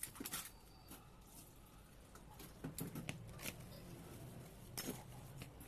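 Scattered light clicks and knocks of small metal parts and hand tools being handled while a rotary diesel fuel injection pump is assembled, with the sharpest click about five seconds in, over a low steady hum.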